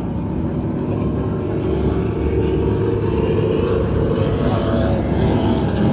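Offshore racing powerboat engines running at speed: a steady, low drone that grows slightly louder.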